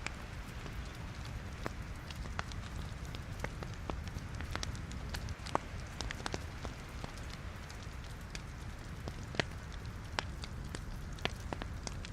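Wood logs burning in a fireplace, crackling with irregular sharp pops over a steady low rumble of the flames; a few pops stand out louder than the rest.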